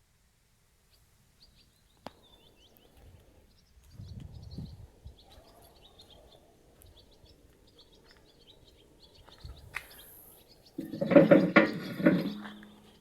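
Faint scattered bird chirps, then about 11 s in a loud steady buzz of an insect close by that lasts to the end.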